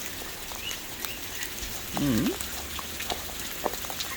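Steady heavy rain falling on a surface, with scattered sharp ticks of drops. A couple of faint short bird chirps sound in the first half, and a brief low hum-like vocal sound comes about two seconds in.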